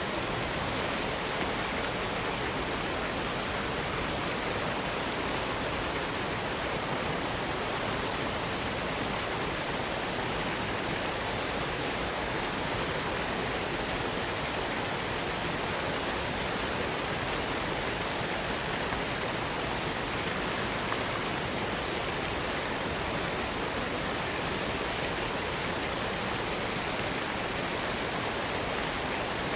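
Waterfall: water falling and rushing in a steady, unbroken roar-like hiss with no rises or pauses.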